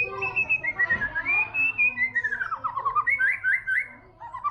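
White-rumped shama singing: a string of clear whistled notes that slide up and down, followed in the second half by a quick run of short upswept notes, about three a second.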